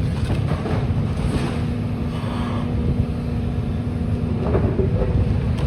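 Demolition excavator's diesel engine running steadily, a low rumble with a held hum.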